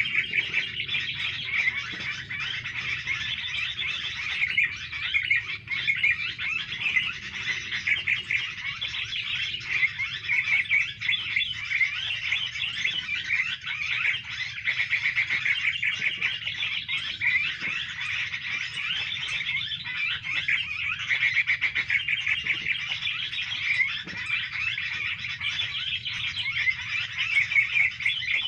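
Many small birds chattering and twittering in a dense, unbroken stream of rapid high notes.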